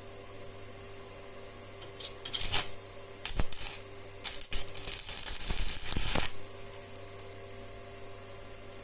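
Rattling and clinking of hard objects being handled, in several loud bursts between about two and six seconds in, over a steady low hum.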